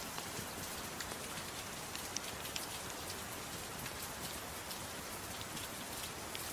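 Soft rain falling steadily, mixed with a fireplace crackling: an even hiss with scattered light ticks and pops.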